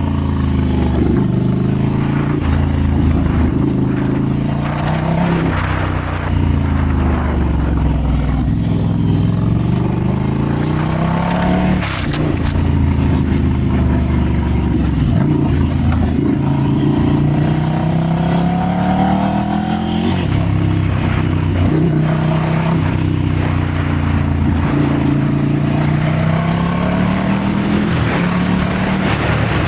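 Ducati Scrambler's air-cooled L-twin engine under way, its revs rising and falling again and again as the throttle is opened and closed, with a few brief dips in between.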